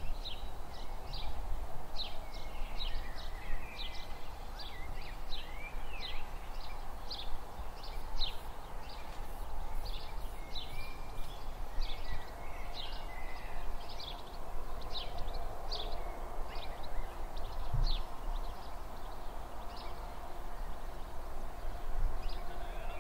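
Small birds chirping over and over, two or three short high chirps a second, over a steady low rumble and hum.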